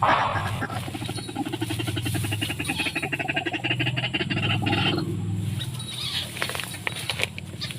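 White-breasted waterhen call, a rapid run of harsh repeated notes that stops about five seconds in, followed by a few sharp clicks.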